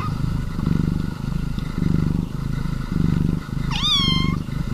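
Domestic cat purring close up, a steady rumble that swells and fades with each breath. One short, high meow comes about four seconds in.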